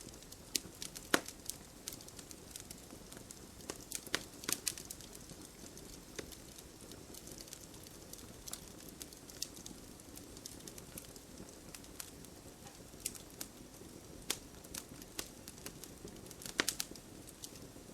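Campfire burning: a soft steady hiss with sharp, irregular pops and crackles of burning wood, a quick cluster of louder pops near the end.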